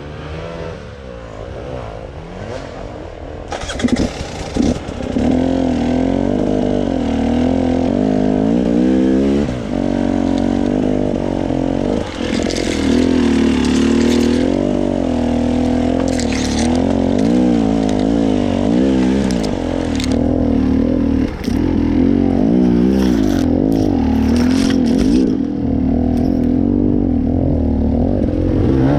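Off-road motorcycle engine running under varying throttle, its pitch rising and falling repeatedly, getting louder over the first few seconds and then staying loud.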